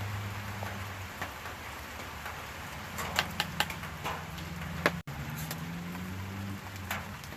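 Steady rain falling, with a few scattered sharp ticks, several close together about three seconds in.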